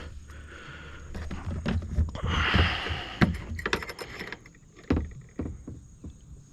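Handling noise in a fishing kayak: scattered knocks and clicks with a rustling, splashy stretch about two seconds in, and two sharper thumps, one just past three seconds in and one near five seconds.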